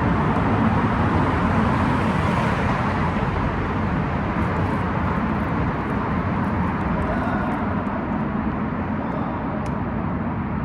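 Steady noise of freeway traffic passing close by, fading slightly toward the end.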